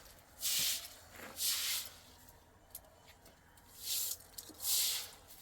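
A series of short hissing strokes, about half a second each, coming at an uneven pace with pauses between them.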